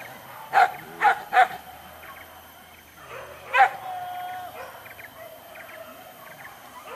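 Hunting dogs barking: three quick barks in a row about half a second in, then another bark a few seconds later that runs into a drawn-out, steady note.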